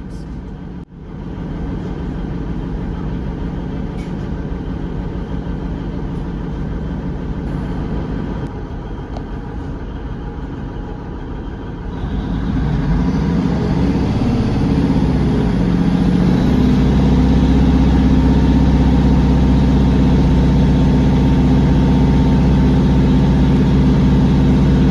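Class 150 diesel multiple unit's underfloor Cummins diesel engines idling, heard from inside the carriage. About twelve seconds in they power up, rising in pitch and getting louder, then settle into a steady, louder drone as the train pulls away under power.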